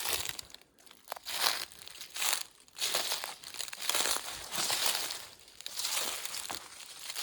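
Footsteps through leaf litter on a woodland floor: a crinkling crunch with each step, about one step a second.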